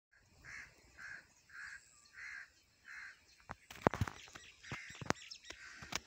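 A bird calling five times in a steady rhythm, a little under twice a second, with harsh caw-like calls. From about three and a half seconds the calls stop and sharp clicks and knocks take over, the loudest of them just before the four-second mark.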